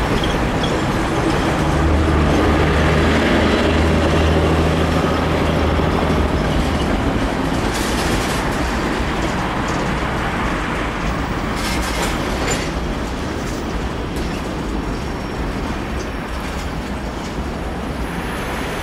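Freight train's covered hoppers and tank cars rolling across a railroad bridge, a steady rumble of wheels on rail, with a few brief high screeches partway through. It eases off slightly toward the end as the last cars pass.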